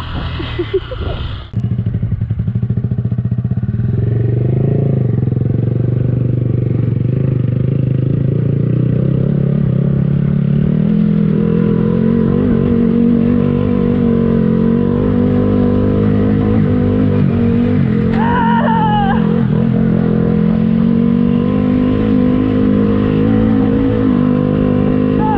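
Motorcycle engine running at a steady speed and an even pitch, cutting in sharply about a second and a half in and rising a little in pitch about halfway through.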